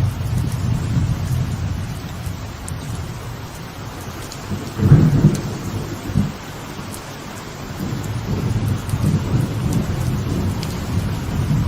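Steady rain falling on a veranda, with thunder rumbling low underneath; a louder thunderclap breaks about five seconds in, then the rumble rolls on and swells again near the end.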